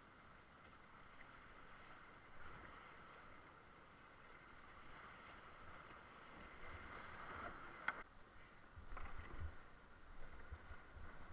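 Faint, steady rush of whitewater creek water, with a single sharp knock about eight seconds in and low rumbling bumps near the end.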